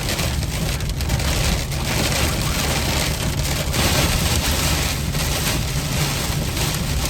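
Rain and wind beating on a moving car, a steady hiss over a low road and engine rumble, heard from inside the cabin.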